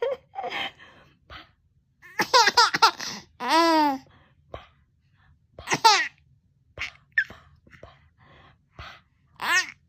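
A five-month-old baby laughing in several bursts separated by short pauses, with high squeals and one longer drawn-out squeal near the middle.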